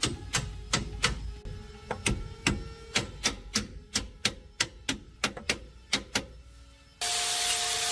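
Hammer striking metal in a quick, uneven series of blows, about three a second, each with a short metallic ring. Near the end it cuts abruptly to a steady rasping noise.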